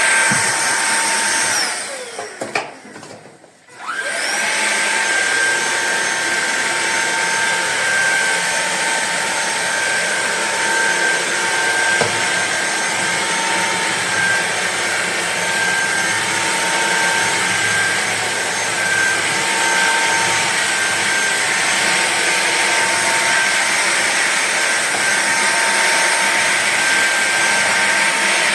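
Cordless stick vacuum cleaner's motor running with a steady high whine. About two seconds in it winds down nearly to a stop, then spins back up about four seconds in and runs on steadily.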